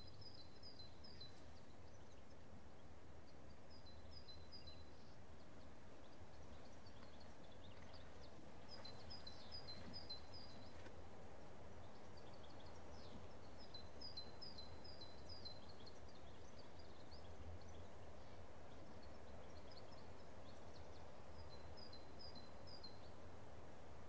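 Countryside ambience: a small bird sings short phrases of four or five quick, high chirps, repeated every few seconds, over a steady low background rumble.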